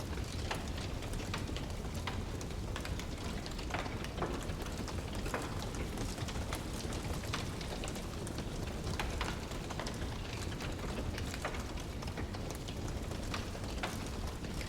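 Wood fire burning in a fireplace, a steady low rumble of flames with frequent sharp crackles and pops at irregular intervals.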